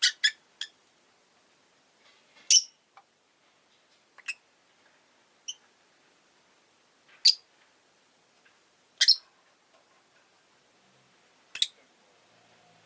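Rosy-faced lovebird giving short, sharp, high-pitched chirps, singly or in quick pairs, every one to three seconds.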